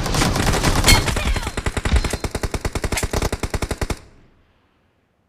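Rapid automatic gunfire from a video game's weapon sound effect, about a dozen shots a second, that cuts off suddenly about four seconds in.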